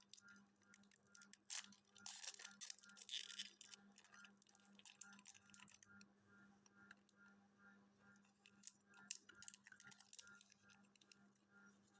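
A clock ticking steadily and faintly over a low, steady hum, with a few seconds of rustling and clicks near the start.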